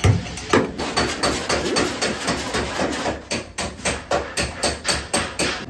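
Hammer beating on car body sheet metal in quick, repeated blows, about three to four a second: panel straightening on a crash-damaged car.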